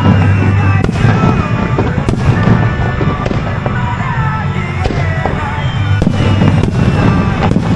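Fireworks shells bursting in quick succession, a sharp bang roughly every second, with music playing underneath.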